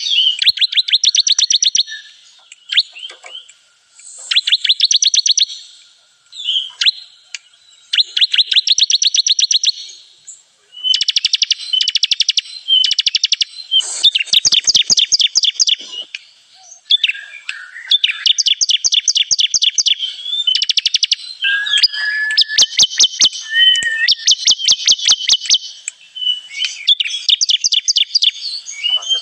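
Ciblek kristal, a small prinia, singing: bursts of very rapid, high, ticking notes, each lasting about a second, repeated over and over with short pauses between them.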